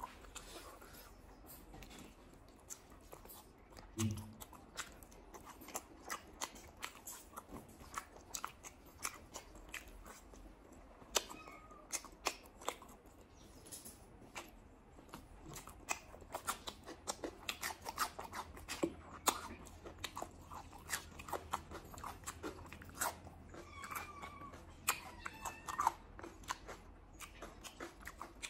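Close-miked eating sounds: wet chewing of rice and leafy curry eaten by hand, with lip smacks and many short crunchy clicks, including crisp bites of raw cucumber slices. A soft low thump comes about four seconds in.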